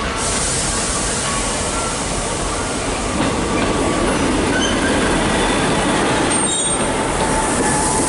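Great Western Railway class 158 diesel multiple unit running into the platform and passing close by, its engine and wheel noise building from about three seconds in, with a brief high wheel squeal about six seconds in.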